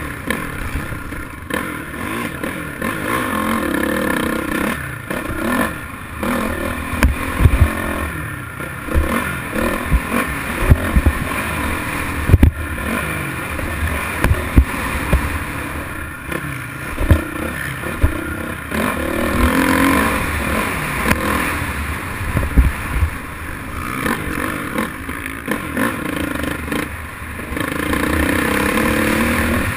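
Motocross dirt bike engines revving up and down in pitch, with repeated sudden thumps and clatter.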